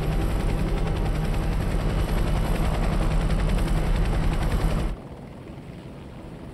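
A loud engine running steadily with a rapid, even pulsing chop, cut off abruptly about five seconds in, leaving only a faint background.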